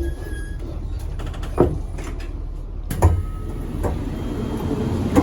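Low rumble inside a JR Kyushu 883 series express train, with four short sharp knocks spread across it.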